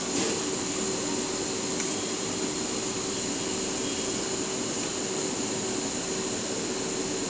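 Steady mechanical hum and hiss with a steady high-pitched tone, unchanging throughout.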